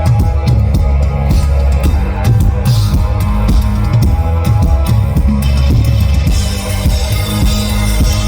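Live rock band playing: drum kit with regular kick and snare hits over bass and electric guitar, loud and steady.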